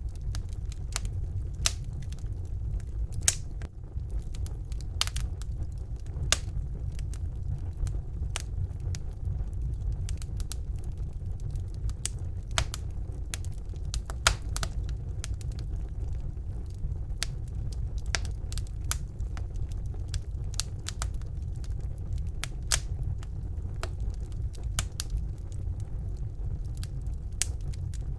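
Wood fire burning in a fireplace: a steady low rumble of the flames with irregular sharp crackles and pops from the burning logs, several a second at times.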